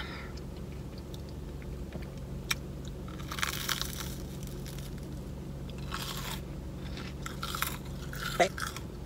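Crunchy bites and chewing of a fried churro coated in cinnamon sugar: a crisp bite a few seconds in, then more bursts of crunching as it is chewed.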